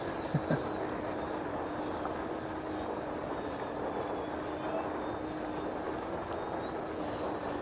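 Electric ducted fan of an RC BAE Hawk model jet in flight: a steady hum under an even rushing hiss. Two short knocks about half a second in.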